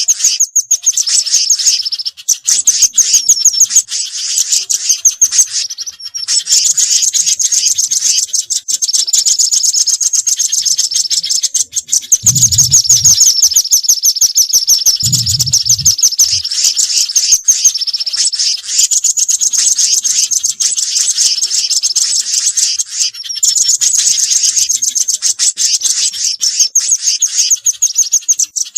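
Bird-lure recording of small songbirds, a mix of nuthatch and spiderhunter calls, chirping rapidly and without pause at a high pitch. Two brief low sounds come about halfway through.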